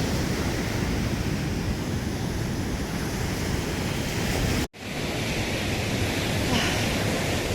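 Ocean surf washing on the beach with wind buffeting the microphone, a steady rush heaviest in the low end. The sound drops out for an instant about two-thirds of the way through.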